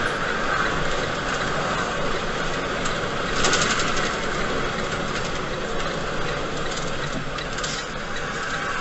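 Vehicle engine and road noise running steadily, with a brief rattle about three and a half seconds in.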